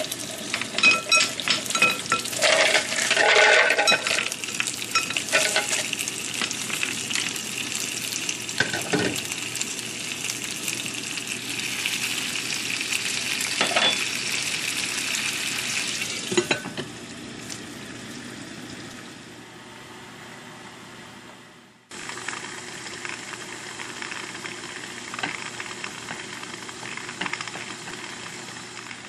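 Live clams clattering as they are dropped into a tajine pot of hot olive oil, garlic and seafood, over a steady sizzle. About two-thirds of the way through, the sizzle falls to a quieter steady hiss of the seafood steaming under the pot's glass lid.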